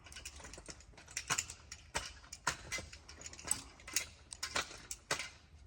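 Irregular sharp clicks and light knocks, one or two a second, as a tree climber's gear clinks and shifts while he moves about on the trunk.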